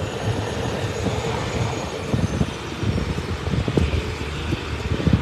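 Heavy vehicle engines, most likely the tow wreckers' diesels, running steadily as a low rumble, with irregular low thumps and bumps over it.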